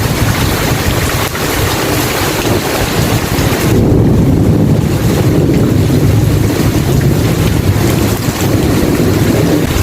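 Steady rain hiss, joined about four seconds in by a long, low rumble of thunder that carries on to the end.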